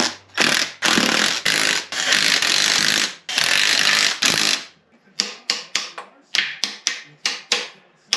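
Shop work on the transfer case: a loud rushing noise in several stretches for about four seconds, then a run of sharp metallic taps or clicks, about three a second.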